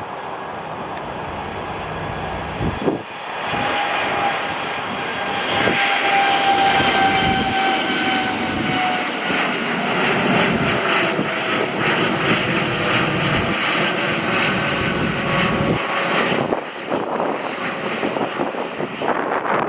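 Airliner passing close by on the runway, its engines building to a loud rush with a whine that slides down in pitch as it goes past, then fading about three-quarters of the way through.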